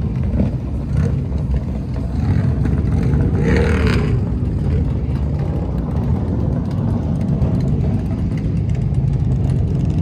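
Motorcycle engine running with a steady low rumble, briefly revving up and back down about three to four seconds in.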